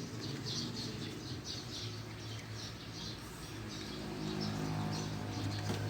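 A small bird chirping repeatedly, a few short high chirps a second, fading out after about four seconds, over a steady low hum.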